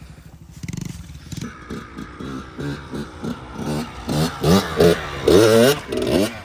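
Kawasaki KX100 two-stroke dirt bike engine idling, then revved hard in repeated throttle surges that rise and fall in pitch and grow louder as the bike is ridden up a steep hill climb, easing off near the end.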